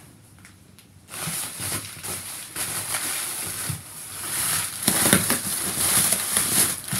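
Shipping packaging being handled as a keyboard is unboxed: cardboard and packing material rustling, crinkling and scraping. It starts about a second in and grows busier toward the end.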